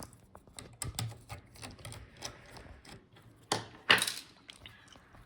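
Irregular small clicks and taps of hands and a tool working on a laptop's USB I/O board to take it out, with two louder clacks a little before four seconds in.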